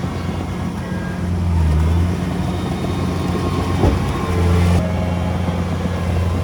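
Heavy diesel earthmoving machinery running steadily, its engine note swelling louder twice, about a second and a half in and again about four and a half seconds in. A single short knock comes just before the second swell.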